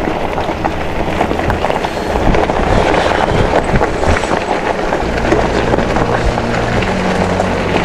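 E-bike ride noise on a GoPro: tyres crunching and rattling over a rough trail, with wind on the microphone. A steady low hum joins about five seconds in.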